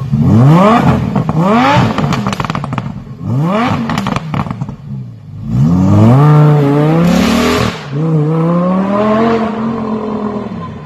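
Car engine revved hard several times through a loud aftermarket exhaust, the pitch rising and falling with each blip, with crackling pops between revs. About halfway through comes a longer rev that then settles back down.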